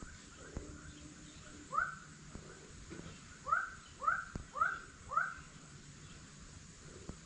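A bird calling outdoors: one call about two seconds in, then four more in quick succession about half a second apart, over a faint steady background with a few light knocks.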